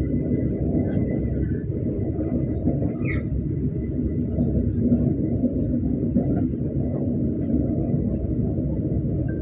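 Steady low rumble of the Ciremai passenger train running along the track, heard from inside the carriage. A brief sharp sound comes about three seconds in.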